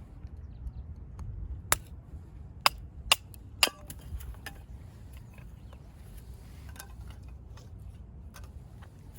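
Firewood being split by hand: four sharp knocks within about two seconds, followed by lighter clicks and small knocks of wood.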